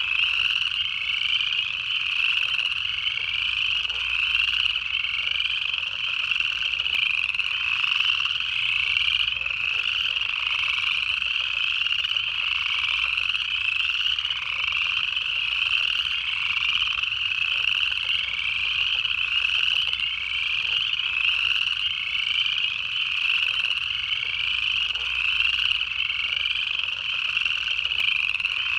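Dense chorus of upland chorus frogs: many overlapping rising trills repeating without pause.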